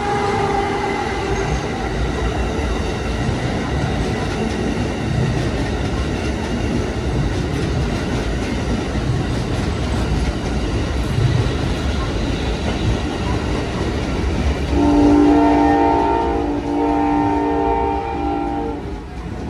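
A passenger train running past on the tracks with steady rail noise. Near the end its multi-note air horn sounds a chord for about four seconds, with a brief break partway through.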